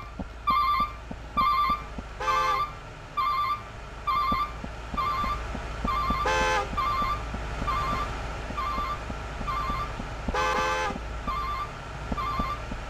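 A truck's engine running under a high electronic beeping that repeats about twice a second. A pitched horn tone sounds three times, about four seconds apart.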